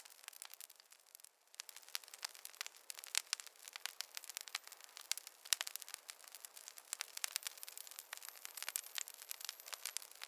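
Wood campfire crackling, with many irregular sharp pops and snaps over a soft hiss of burning.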